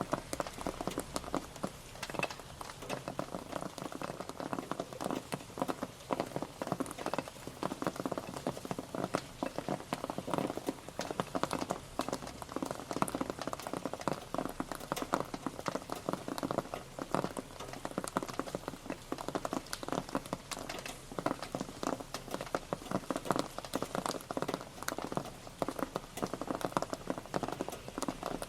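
Steady rain pattering, a dense run of individual drops ticking on a surface.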